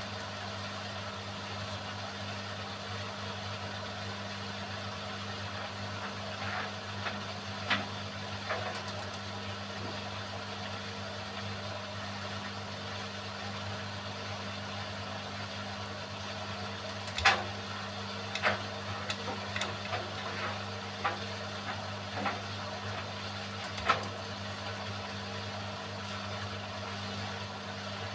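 Beko WMY81283LMB2 washing machine running with a steady motor hum, late in a hand wash cycle. A few sharp clicks and knocks break in, most in a cluster about two-thirds of the way through, typical of the load knocking in the drum.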